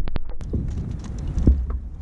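Wind rumbling on the microphone, with a few sharp clicks at the start and a dull thump about one and a half seconds in.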